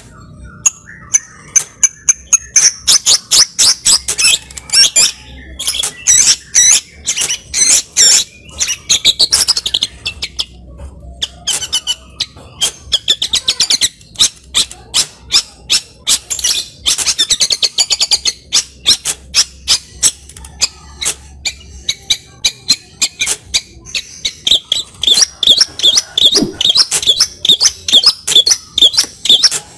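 Long-tailed shrike (cendet) singing a fast, varied song of short, sharp notes and chattering trills, full of phrases mimicked from other birds. Near the end it runs into a series of evenly repeated notes.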